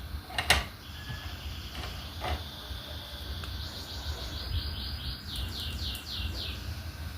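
A sharp click about half a second in, like a diamond painting pen pressing a drill onto the canvas, followed by a few fainter ticks. Later comes a quick series of about eight high chirps, each falling in pitch, over a low steady rumble.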